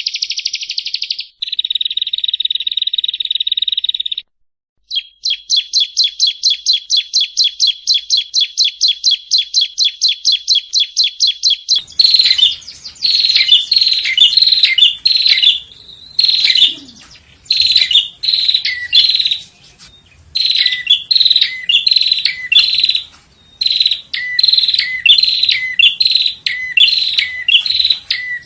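Yellow-bellied prinia (prenjak rowo) singing. It opens with a fast buzzy trill that breaks off after about four seconds, followed by a long run of rapid chirps at about six a second. Around twelve seconds in, it changes to bursts of loud notes that drop in pitch, over a faint background hiss.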